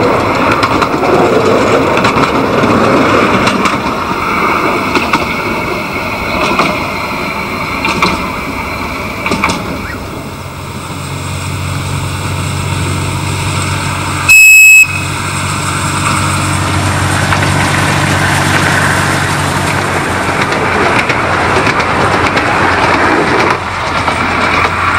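Miniature-railway diesel locomotive running with a steady low hum. About halfway through it gives one short, loud, high-pitched whistle blast.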